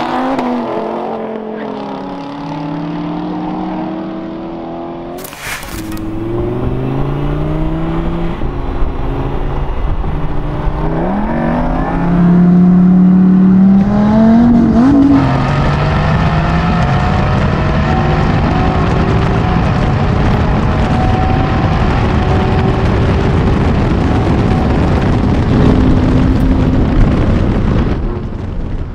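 Front-engine supercars' V8 and V10 engines at full throttle in a roll race, each engine note rising in pitch and dropping back at the upshifts several times, with a sharp crack about five seconds in. Loudest around the middle, it settles into a steady high-speed drone with rushing noise before easing near the end.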